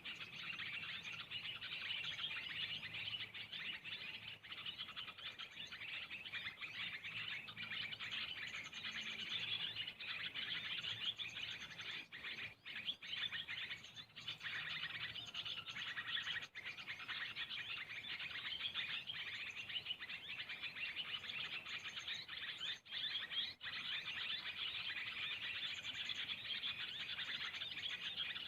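Small songbirds chirping and twittering in a dense, unbroken chorus of fast, high calls.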